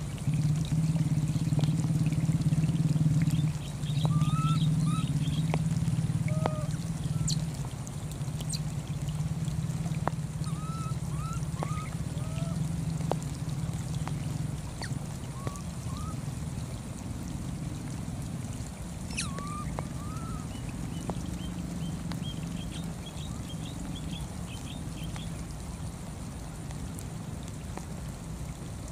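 Steady pouring rain, a low rushing noise that gradually eases, with short high chirping calls now and then.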